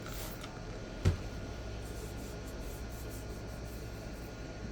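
Steady low hum of room noise, with one soft knock about a second in.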